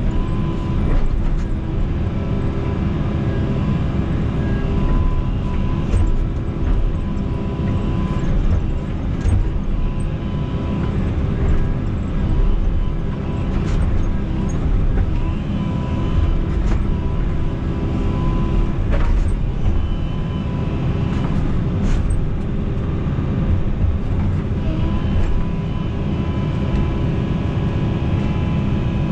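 Excavator's diesel engine running steadily under working load, heard from inside the cab, with a steady hydraulic whine and scattered clanks and knocks from the machine at work.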